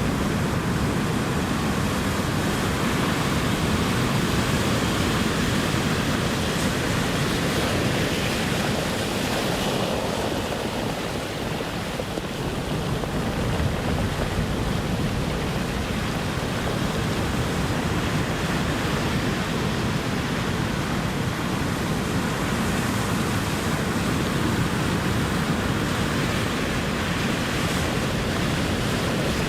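Ocean surf: a steady wash of breaking waves, swelling and easing slightly with a small lull about a third of the way in.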